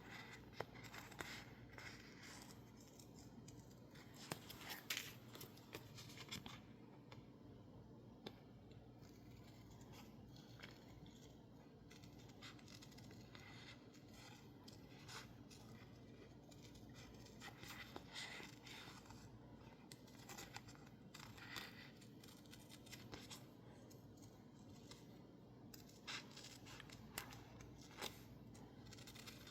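Scissors faintly snipping through stickers on label paper, in irregular runs of small cuts with a quieter pause in the middle.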